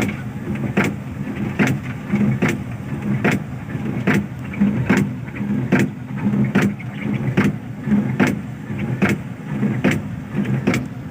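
A vehicle engine running steadily, with a sharp, regular swish or click repeating a little faster than once a second.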